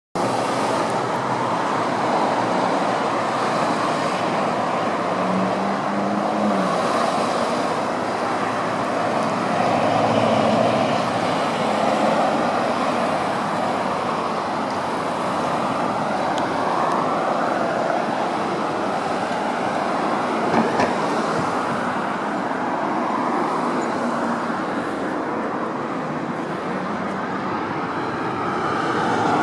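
Steady outdoor road-traffic noise that swells and fades slowly as vehicles pass.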